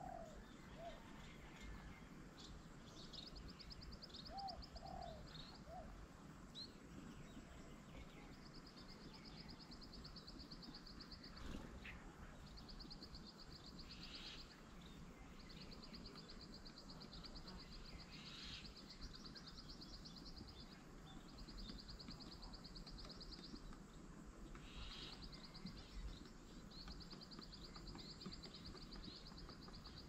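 Birds calling at a garden bird table: high, rapid trills repeat one after another, each lasting one to three seconds. A few short, lower notes sound in the first few seconds.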